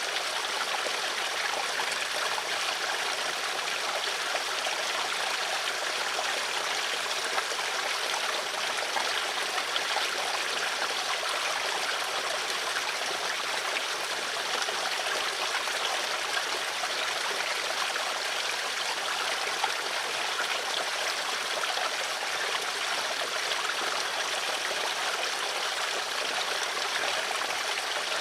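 Water flowing steadily in a stream, an even rushing and trickling without change.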